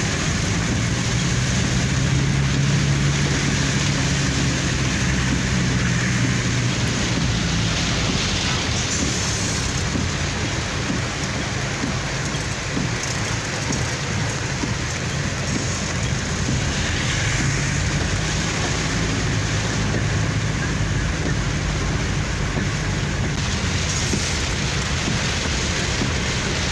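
Heavy rain falling steadily, with the low steady hum of a car's engine underneath that rises and falls slightly as it drives.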